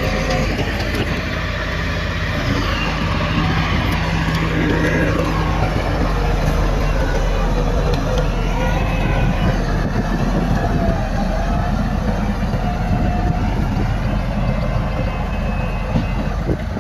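Heavy earthmoving machinery, bulldozer and dump truck engines, running steadily under work.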